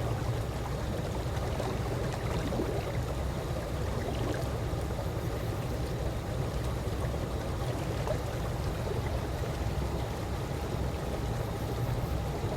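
Calm swimming-pool water lapping and sloshing in a steady, even wash, heaviest in the low range.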